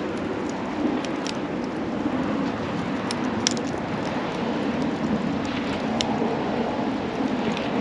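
Wood campfire burning with a steady rushing sound and a few scattered sharp crackles; the sharpest pop comes about three and a half seconds in.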